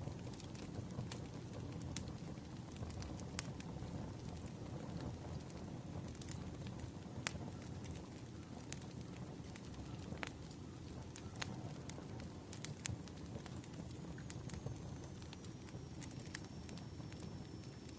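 Wood fire crackling: irregular sharp pops and snaps of burning firewood over a low steady rumble.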